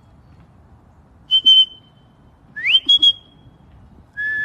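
A person whistling to call a pet bird: a short clear whistle about a second in, then one that slides up from a lower note into a held higher note, and a low note starting again near the end.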